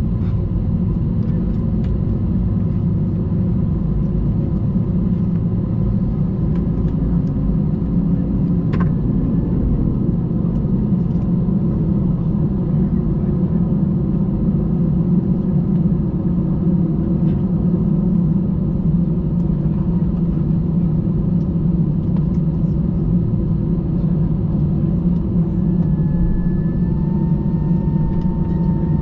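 Airbus A320 cabin noise with the engines running on the ground: a steady low rumble. A faint higher tone steps up in pitch near the end.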